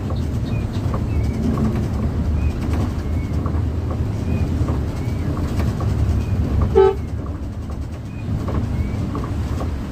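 Steady low engine and road rumble heard from inside a moving bus, with one short horn toot about two-thirds of the way in.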